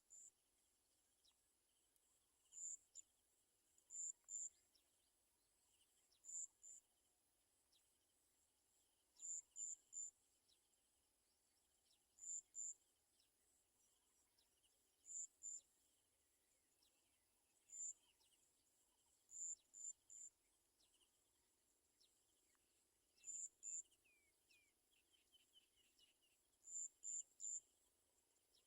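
Faint high-pitched cricket chirps, short pulses in groups of two or three, repeating about every two to three seconds.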